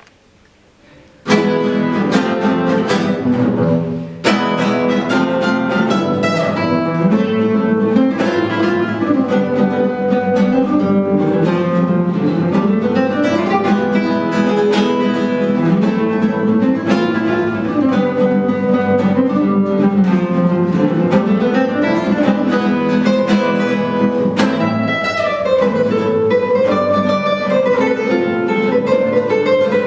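Two acoustic guitars playing a flamenco-style duet, opening with a sharp strummed chord about a second in. After a short break the melody and accompaniment run on in plucked notes.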